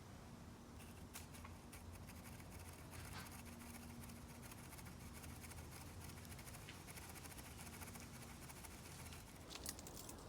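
Near silence with faint, scattered small clicks and rustles and a faint low hum; a few sharper ticks come near the end.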